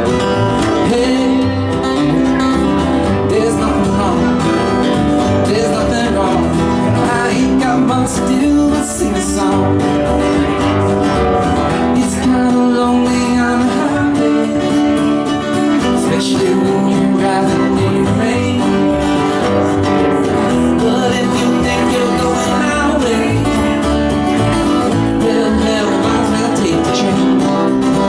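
A live band playing a country-style song, with guitar prominent in a passage before the sung verses.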